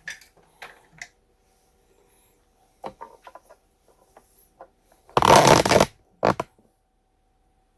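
Handling noise on a workbench: scattered light clicks and taps, then a loud scraping rustle lasting under a second about five seconds in, followed by a shorter one.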